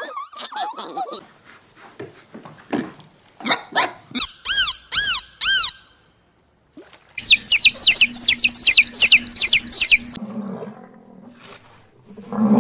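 A string of different animal calls. Scattered short calls and clicks come first, then a run of high, arching calls about four seconds in, then a faster run of high, shrill calls from about seven to ten seconds in.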